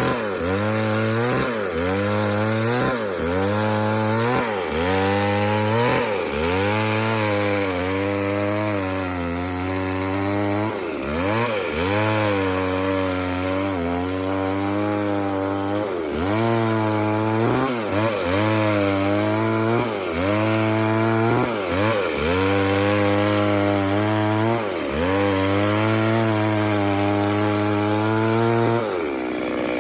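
Two-stroke chainsaw cutting wood under load, its engine note sagging and recovering about once a second as the chain bites. Near the end it drops to a lower, steadier note.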